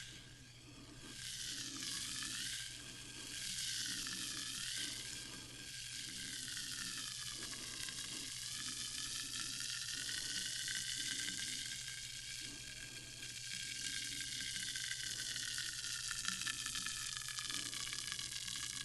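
Carbonated sparkling water fizzing: a dense, steady crackle of tiny bubbles bursting, swelling and easing a little in the first few seconds, over a faint steady low hum.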